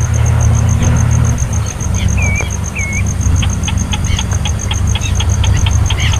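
A loud, steady low rumble like an idling engine, over a regular high pulsing tone. About two seconds in come two short curling bird chirps, followed by quick, high ticking peeps through the second half.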